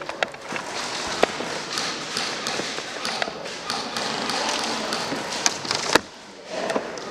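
Scattered single sharp taps and clicks of an airsoft game over a steady noisy background, with the sharpest crack about six seconds in.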